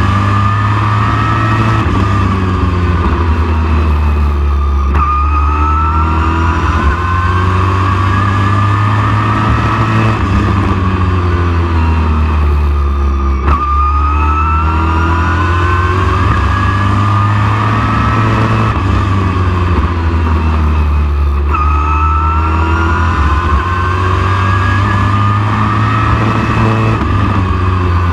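Race truck engine running hard, its pitch climbing steadily for several seconds and then dropping sharply when the throttle comes off, three times over, as the truck laps a short oval. A strong low rumble runs underneath.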